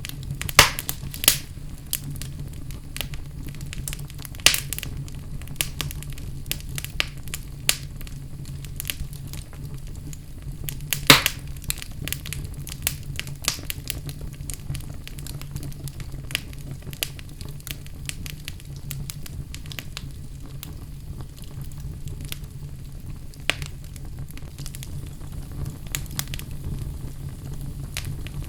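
Wood fire burning in a fireplace: a steady low rumble of the flames with irregular sharp crackles and pops, a few louder snaps standing out.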